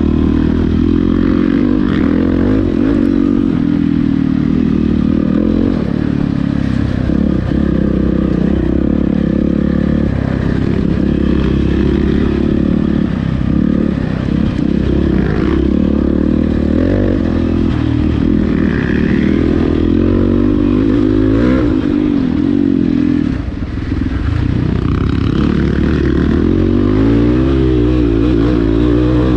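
Enduro dirt bike's single-cylinder four-stroke engine running under load while riding, its pitch rising and falling with the throttle, with a short dip in loudness about 23 seconds in.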